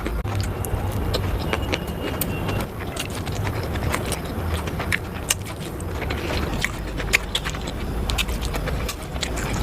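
Close-miked chewing of food, with many sharp mouth clicks and smacks scattered through it over a steady low rumble.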